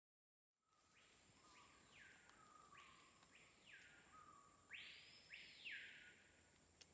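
Tropical rainforest ambience that starts about half a second in: a bird gives three loud whistled calls, each sweeping up and back down, the last the loudest, over a steady high hiss of insects.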